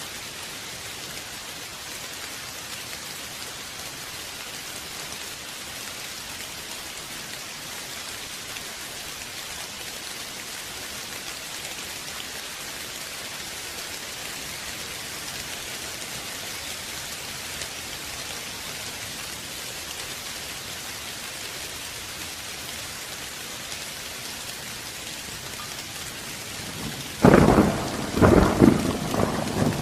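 Steady rain falling, an even hiss. Near the end a loud thunderclap breaks in and rolls on in rumbling surges.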